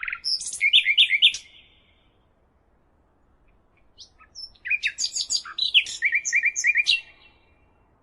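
A songbird singing two phrases of rapid, high chirping notes: a short phrase at the start and a longer one about four seconds in, ending in a quick run of repeated notes.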